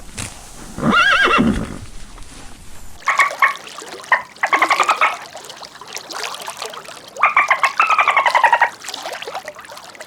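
Horse whinnying several times: a short call about a second in, then fluttering whinnies that fall in pitch, the longest near the end.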